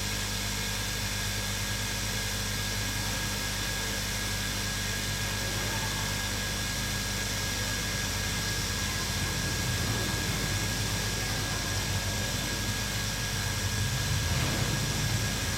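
Hot air rework gun blowing a steady hiss with a thin constant whine and a low hum, heating the board until the solder under the glued chip melts. It grows slightly louder near the end.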